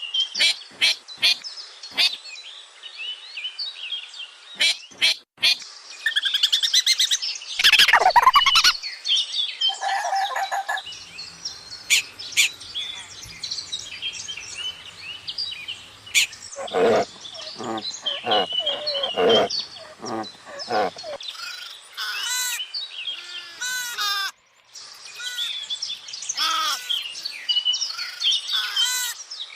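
Birds chirping and calling, in a string of short clips, with a run of quick, repeated arching calls in the last few seconds.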